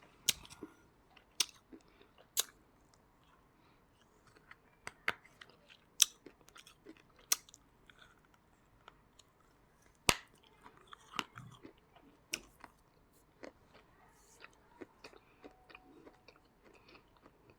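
Close-up chewing of choy coated in a cocoa and clay paste: irregular sharp crunches and wet mouth clicks every second or two, with the loudest snaps about six and ten seconds in.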